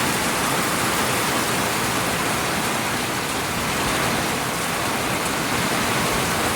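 Heavy downpour of large, dense raindrops falling and splashing in a steady, even rush.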